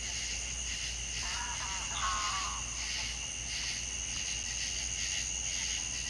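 Chorus of insects, crickets or similar, a steady high trilling that pulses about two to three times a second. About a second in, a short warbling call from another animal sounds over it.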